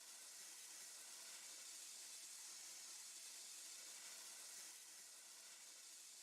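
Near silence: a faint, steady hiss with no music or other events.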